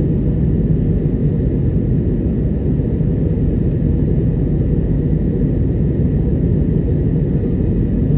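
Airbus A321neo cabin noise during the climb: a steady, low, even rush of engine and airflow noise heard inside the cabin.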